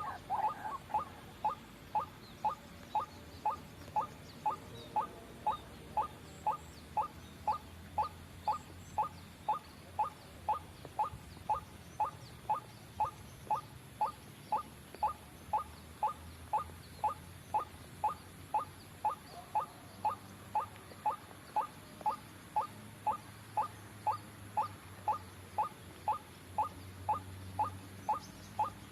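White-breasted waterhen (ruak-ruak) calling: a monotonous series of short, sharp notes repeated steadily about twice a second, the bird's luring call used to attract others of its kind.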